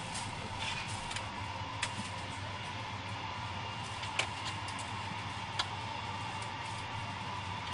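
Steady cabin hum of an Airbus A380 with a faint steady tone, broken by a few sharp clicks.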